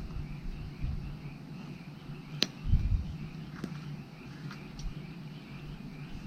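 Wood fire crackling, with one sharp pop about two and a half seconds in and a few smaller snaps after it. Underneath runs a steady, pulsing chorus of frogs calling.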